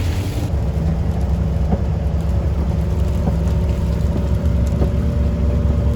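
Mack plow truck's diesel engine running steadily, heard from inside the cab as a low drone. A high hiss dies away about half a second in, and a few faint clicks sound over the drone.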